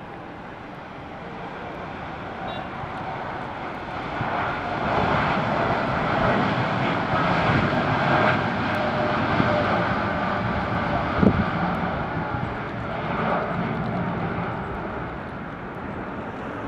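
Airliner's engines passing: the noise swells over a few seconds, holds loud with a steady whine in it, then slowly fades.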